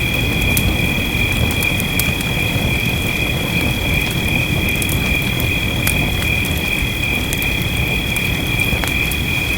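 Wood fire crackling with scattered sharp pops over a steady low rumble of rain, with a continuous high-pitched drone of two steady tones running through it.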